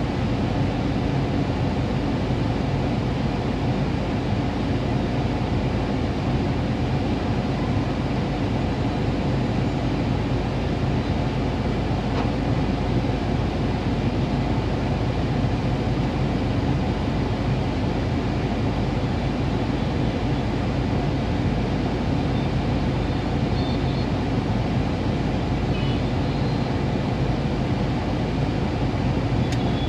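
Steady low hum inside a car's cabin while the car stands still with its engine idling.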